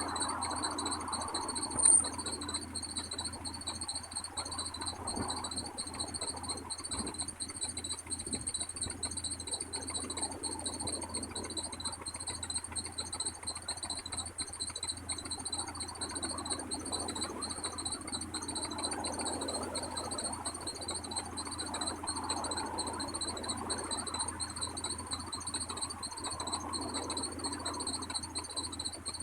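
Electric bell of a railroad level-crossing warning system ringing continuously as a rapid, steady high-pitched trill. A single sharp click sounds about two seconds in.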